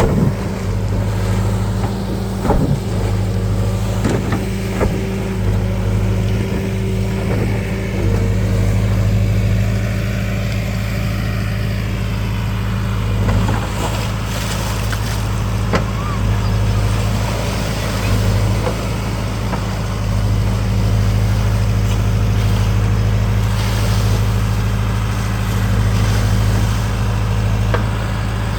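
A motor runs steadily at one constant pitch, with a few short clicks and knocks over it.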